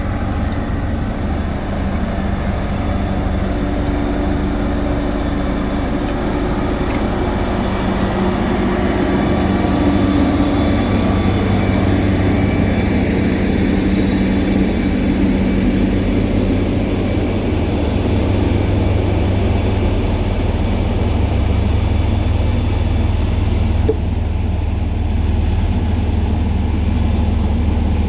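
Heavy road-paving machinery engines running steadily, a loud low drone that grows somewhat louder about eight seconds in.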